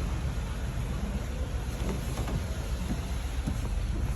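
Ford Ka three-cylinder engine idling steadily, running smoothly and without engine noise after a new timing belt, oil pump and bearings.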